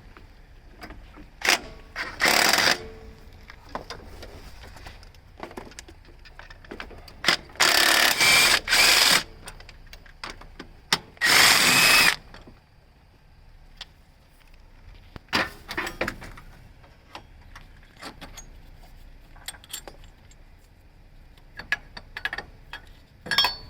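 Power impact wrench running in several short bursts of up to about a second, loosening the transmission mount bolts, with fainter clicks and clinks of tools between.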